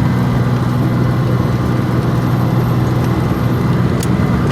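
Steady drone of a truck's engine with road noise, heard from inside the cab while cruising on the highway.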